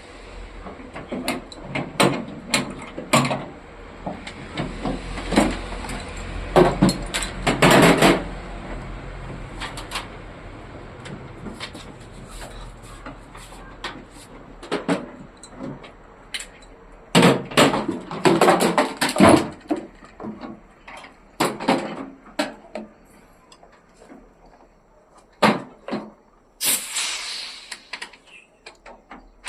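Irregular knocks, clicks and clatter of tools and parts being handled during air conditioner installation work, in clusters with short gaps, over a low steady hum.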